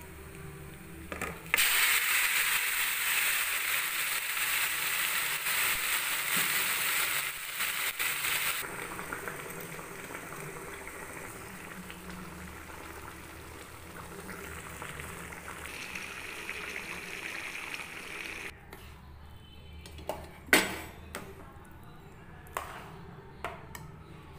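Ghee sizzling with cashews and black pepper frying in it; about a second and a half in, the sizzle turns suddenly loud and hissing for several seconds, then settles to a softer sizzle. Near the end come a few clinks and knocks of a steel spoon mixing cooked rice and lentils in the pan.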